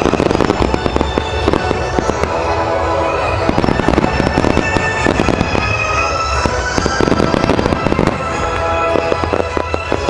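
A fireworks finale: rapid volleys of aerial shells bursting in a long row, dense overlapping bangs and crackling, thinning near the end.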